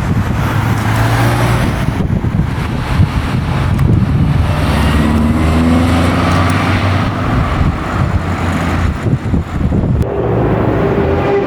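Classic car engines running, with the engine note rising in pitch about halfway through and another engine note starting to fall near the end.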